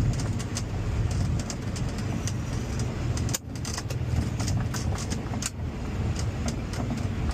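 Light aircraft cockpit noise during landing: a steady low engine drone and airflow, with many short clicks and rattles and a brief dip about three and a half seconds in.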